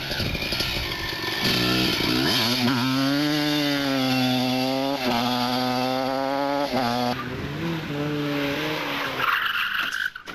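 Rally car engine running hard at high revs, its pitch climbing, holding and dropping with throttle and gear changes, over a rush of tyre and road noise.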